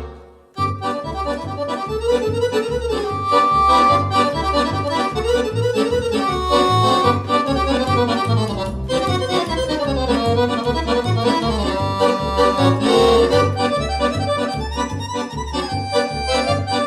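Accordion playing a lively instrumental tune, with a steady alternating bass-and-chord accompaniment under the melody. The music breaks off for about half a second at the very start, then carries on.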